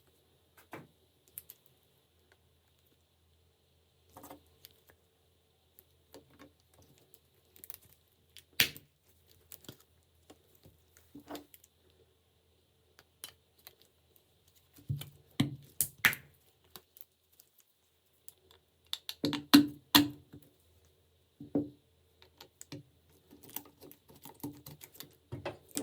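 Scattered clicks and light knocks of small parts and tools being handled on a workbench, coming irregularly and in clusters that grow busier in the second half.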